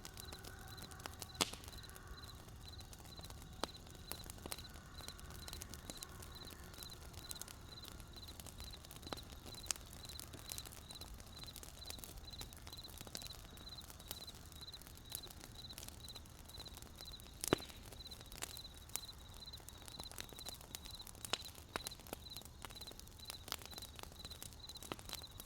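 Wood campfire crackling, with scattered sharp pops at irregular moments. Under it a cricket chirps steadily in a regular pulsing high note.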